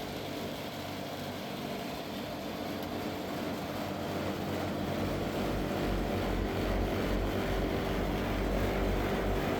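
2007 Daikin 7-ton heat pump outdoor units running in heating mode: a steady hum of compressor and fan with several low tones, growing a little louder, with a deep low rumble joining about five seconds in.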